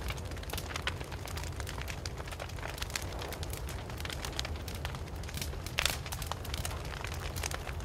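Wood fire burning, with a steady low rumble of flames and frequent irregular crackles and pops, one louder pop about six seconds in.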